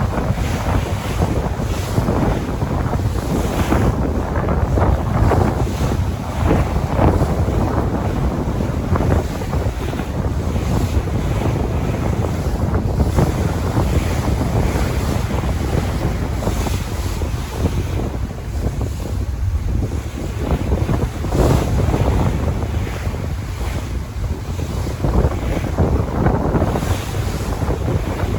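Sea waves washing and breaking in swells, with wind buffeting the microphone as a steady low rumble.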